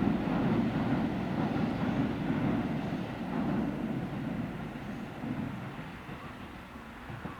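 Kintetsu electric train running past on the line, its low rumble fading steadily as it moves away.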